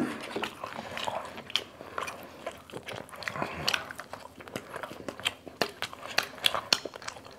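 People chewing and biting fried chicken and a soft bread roll close to clip-on microphones: many short, irregular mouth clicks and smacks.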